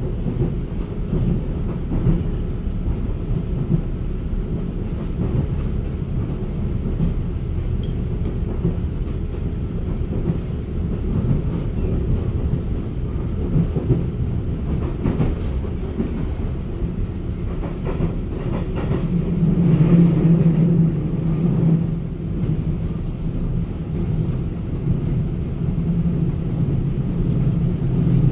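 Inside a Taiwan Railway EMU900 electric multiple unit under way: steady rumble of wheels on rail, with a few faint clicks near the middle and a low hum that grows stronger about two-thirds of the way through.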